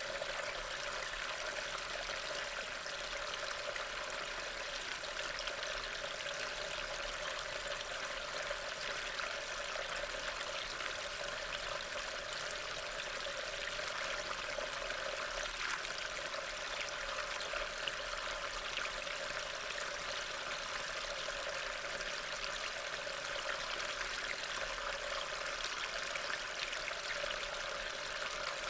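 Water running steadily into a storm drain, a continuous trickling, splashing flow with no breaks.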